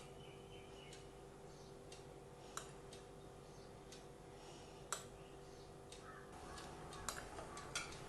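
A few faint, scattered clicks of a spoon against a bowl over a quiet room with a steady low hum.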